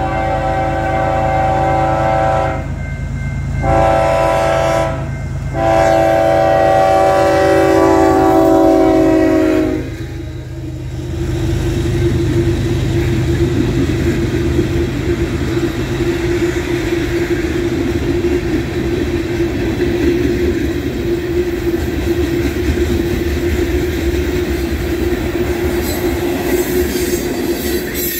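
Union Pacific freight locomotive's air horn sounding three blasts: one already going that ends about two and a half seconds in, a short one, then a long one lasting until about ten seconds in. The train then rolls past close by as a steady rumble of steel wheels on rail from the passing tank cars, with a steady ringing tone over it.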